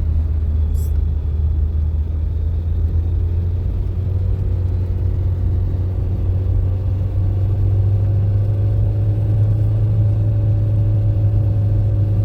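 Car engine and road noise: a steady low drone, with the engine note rising slightly about halfway through.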